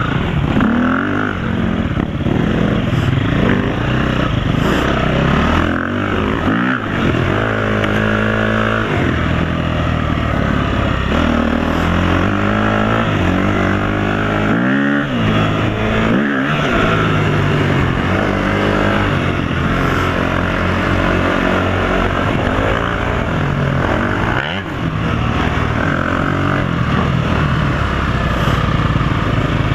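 Dirt bike engine running under way, its pitch rising and falling again and again as it revs and eases off.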